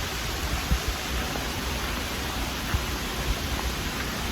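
Steady rushing of a mountain creek and waterfall, an even wash of water noise without breaks.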